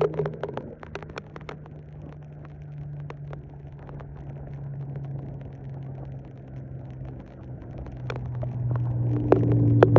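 Dodge 350 diesel truck engine running at a steady pitch, growing louder over the last couple of seconds. Scattered sharp clicks and knocks sound over the engine.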